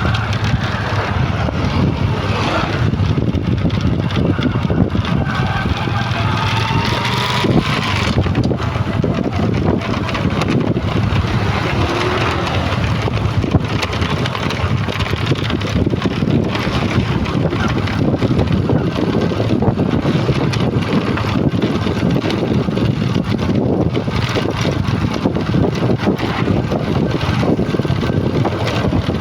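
Heavy truck engine running steadily without pause.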